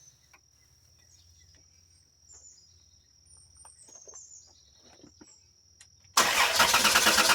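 Swapped V6 engine being cranked and briefly firing: near the end a sudden loud, rough burst of about a second. Before it, only faint chirps and a steady high whine.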